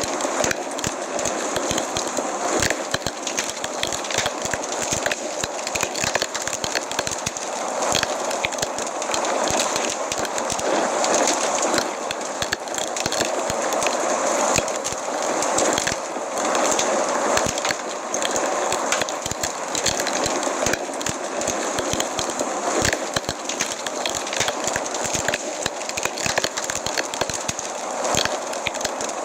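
Wood fire in a fireplace crackling, with many small snaps and pops over a constant hiss.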